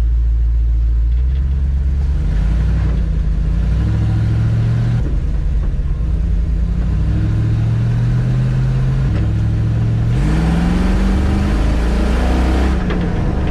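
Fuel-injected 5.7-litre Hemi V8 of a Dodge Ram-based truck accelerating on the road. The engine note rises and drops back about three times as it shifts up through the gears, and is loudest under hard acceleration near the end.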